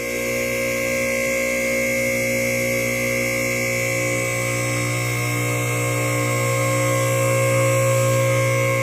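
Electric hydraulic power unit of a Dannmar two-post lift running, a steady electric motor-and-pump hum with a high whine, as the hoist is raised.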